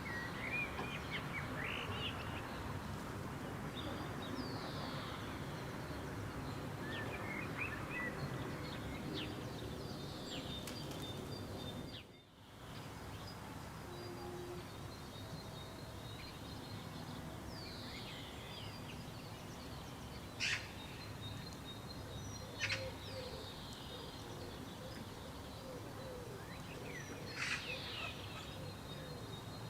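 Wild birds calling over a steady background hiss: quick sweeping chirps near the start, then after a brief dropout about twelve seconds in, a faint steady high tone and several short, sharp, loud calls in the second half.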